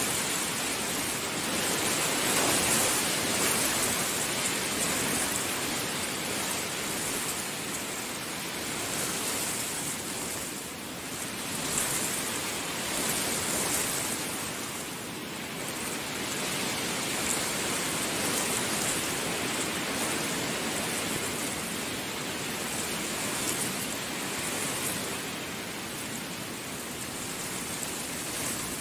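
Heavy rain falling in a steady downpour that swells and eases in strength.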